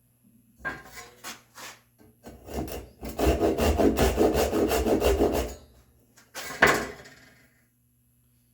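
A hand tool scraping red oak while cleaning up the edges of a cut. A few separate strokes come first, then a quick run of back-and-forth strokes at about six or seven a second for some two and a half seconds, then one sharp knock near the end.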